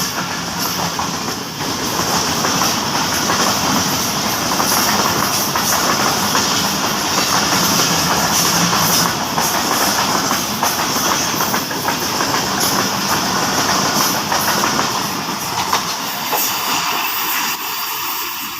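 Tezgam express passenger train passing at speed, a steady rushing rail noise with wheels clattering over the rail joints. The sound thins out near the end as the train draws away.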